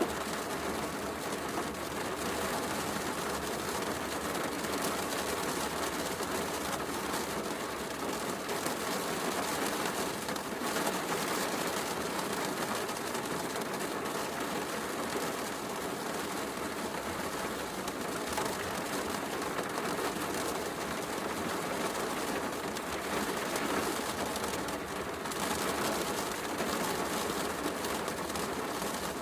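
Steady heavy rain with a fireplace crackling, an even, unbroken wash of noise.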